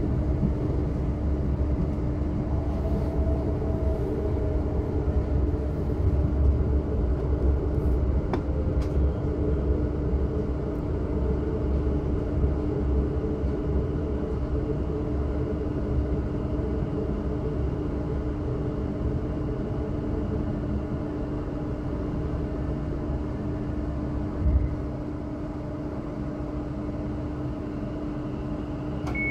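Electric passenger train heard from inside the carriage as it slows for a station: steady rumble of wheels on track with a constant electrical hum, and a motor whine that falls in pitch during the first several seconds as it brakes. A single knock about 24 seconds in.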